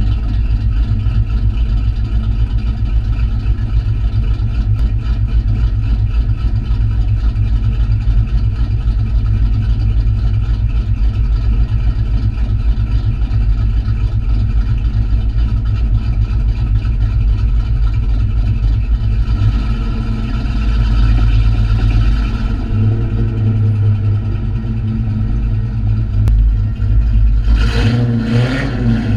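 2001 Ford Bullitt Mustang's 4.6 L V8, fitted with race cams and a MAC long-tube header, Pro Chamber and cat-back exhaust, running mostly at idle. The engine note rises briefly about two-thirds through, and a short, louder burst of noise comes near the end.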